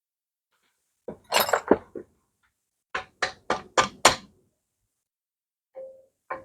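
Metal engine parts knocked and handled on a workbench. First a cluster of clunks, then five quick, evenly spaced sharp knocks, then two short clinks that ring briefly near the end.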